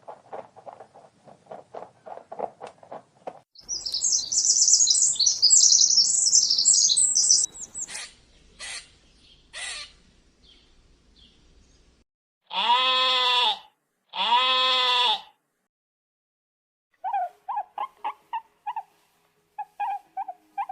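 A run of different animal calls, one after another. First comes a quick series of short calls, then about four seconds of high bird twittering and a few short chirps. After that come two long bleats of about a second each, and short chirping calls near the end.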